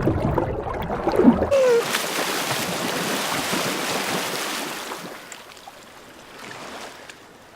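A person plunging into lake water with a loud splash about a second in, followed by a few seconds of churning, sloshing water that fades away.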